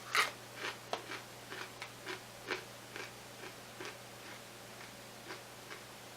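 Crunchy chewing of Doritos 3D Bacon Cheddar puffed corn snacks: a loud crunch at the start, then crunching chews about twice a second that grow fainter as the mouthful breaks down.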